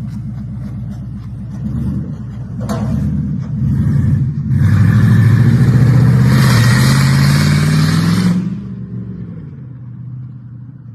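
Old truck's engine being revved: a couple of short blips, then a long, loud rev rising in pitch for about four seconds before it drops back toward idle.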